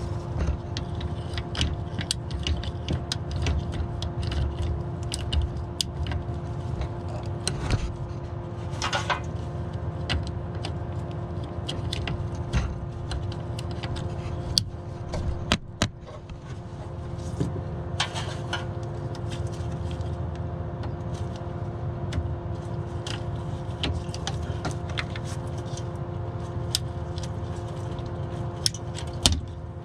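Hand tools clinking and scraping on metal in irregular clicks and knocks while working to free a stuck fuel filter, over a steady low hum.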